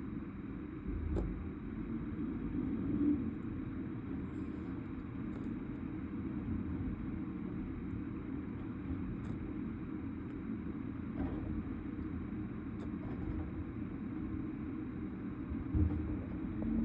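Steady low rumble of a road vehicle's engine running, with a few faint clicks and knocks.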